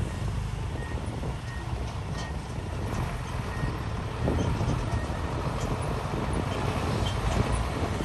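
Heavy diesel earthmoving machinery running: a steady low engine rumble with clanking and churning noise.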